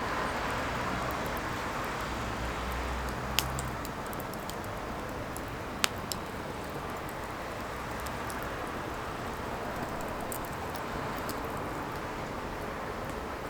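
Firewood burning: a steady hiss of the fire with scattered small crackles and two sharp pops, one about three and a half seconds in and a louder one about six seconds in.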